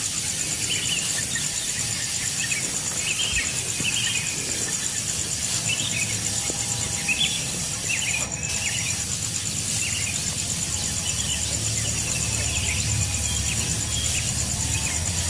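Outdoor bird and insect sounds: a small bird gives short, high chirps every second or so, over a steady, rapidly pulsing high insect trill and a constant hiss. A brief rustle-like noise comes about halfway through.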